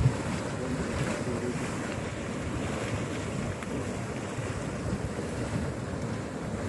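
Steady rushing, rumbling noise of a churning, bubbling hot spring or mud pot, mixed with wind on the microphone. A short knock comes right at the start.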